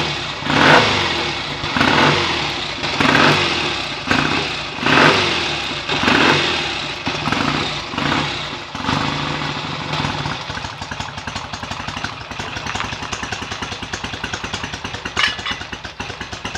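BSA A65 650cc parallel-twin motorcycle engine, freshly rebuilt and on its first run, being revved in short throttle blips roughly every second or so for the first nine seconds, then settling to a steady idle.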